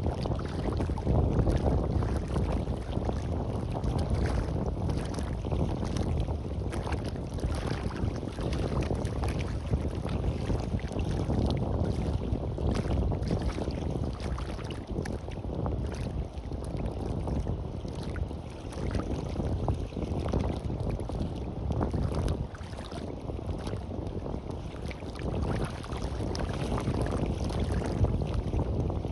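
Wind buffeting the microphone in an uneven low rumble, over the wash of sea waves on a beach.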